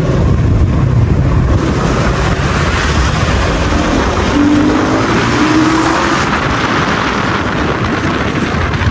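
Dirt bike riding along a road: its engine is running under a steady rush of wind on the microphone, with a brief steady engine tone in the middle.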